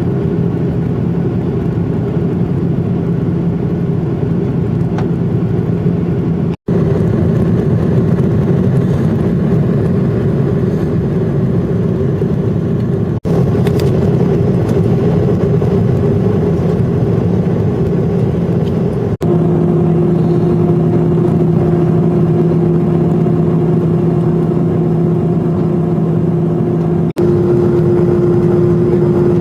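Jet airliner cabin noise: engines and rushing air making a loud, steady noise with a few steady hum tones. Four short dropouts break it, and after each the hum tones come back at a different pitch, as if separate recordings were joined together.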